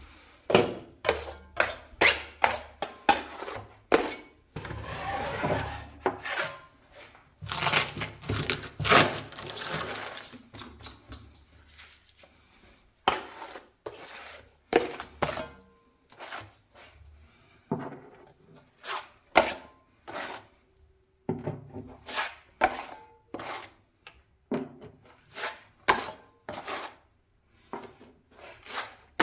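Hand-tool work: a long run of irregular sharp knocks and taps, with two stretches of scraping or rubbing in the first third.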